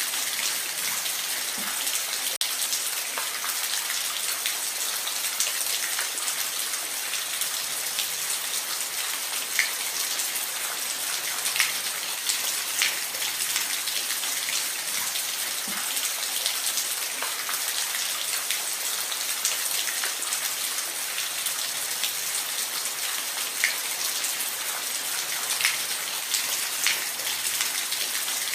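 Steady hiss of falling water, with many small splashing drops standing out above it.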